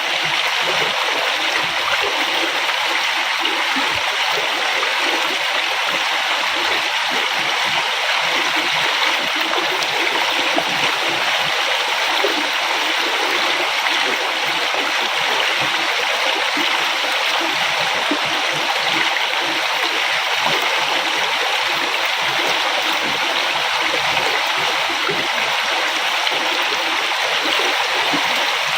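A river flowing over rocks, with a steady rush of water and a light gurgle, even throughout.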